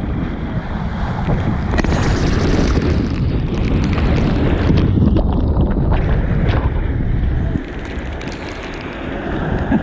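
Rushing water and wind buffeting the microphone during a head-first mat ride down a water slide. The rush is loud and even, then drops noticeably about three-quarters of the way through.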